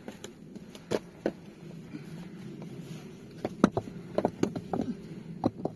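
A run of irregular sharp knocks and clicks, sparse at first and coming thicker from about halfway, over a faint steady low hum.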